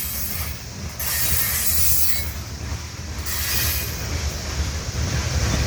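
Freight train cars rolling past slowly: a steady low rumble of wheels on rail, with a hiss of higher wheel noise that swells and fades a couple of times.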